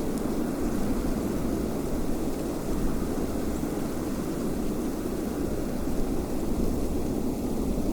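Steady wind ambience: a constant low rushing rumble with no distinct gusts or breaks.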